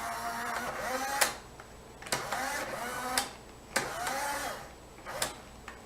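Fleischmann model railway turntable's small electric motor and gearing whirring in three short runs, the pitch rising slightly in the later runs, with several sharp clicks between them as the turntable is run and realigned to stop at the right track.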